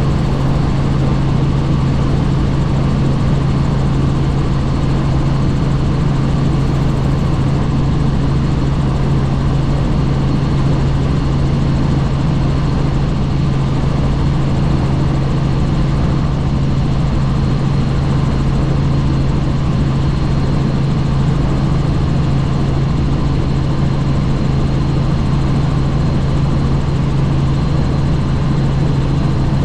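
Helicopter in flight, a steady unbroken drone with a strong low tone that never changes.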